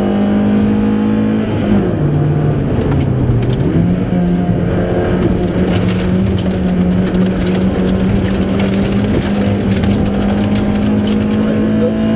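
VW Golf III 16V rally car's engine heard from inside the cabin, running hard at high revs. About a second and a half in, the revs fall for a couple of seconds, then climb back and hold high.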